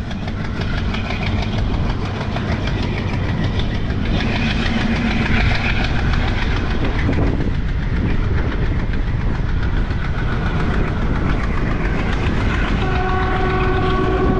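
Passenger train running on the rails, a loud steady rumble of wheels and carriages that swells over the first two seconds. Near the end a horn sounds one steady note for about two seconds.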